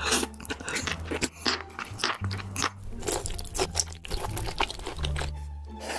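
Close-miked eating sounds: many quick crunchy bites and chewing crackles, over background music with a steady low bass line.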